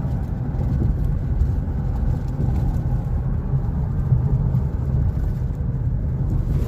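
Steady low rumble of a moving car, engine and road noise heard from inside the cabin while driving.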